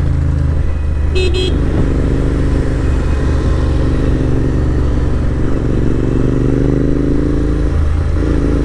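Royal Enfield GT650 parallel-twin engine through an AEW aftermarket exhaust, running steadily while riding, its note slowly climbing in pitch in the second half. A short horn toot sounds about a second in.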